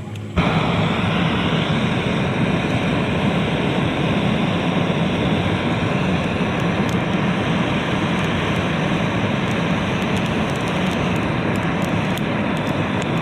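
Motorboat engine running steadily under way, a constant drone with a hiss over it, starting abruptly about half a second in.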